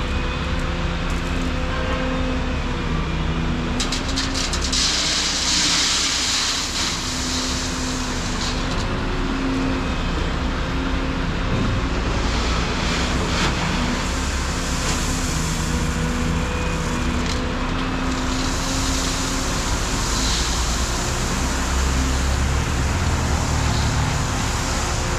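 Volvo 235EL excavator's diesel engine running under working load, its pitched hum shifting up and down as the hydraulics work. Loud hissing noise swells in about four seconds in and again near the end, with a few sharp clicks at the first swell.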